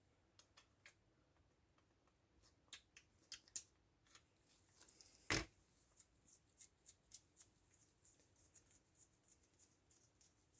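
Faint, scattered clicks and taps of hands handling small chainsaw parts, with one louder knock about five seconds in.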